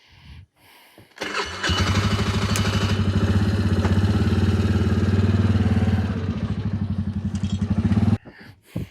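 ATV engine starting about a second in and running steadily with an even, rapid firing beat. It eases slightly about six seconds in, then is shut off and stops abruptly near the end.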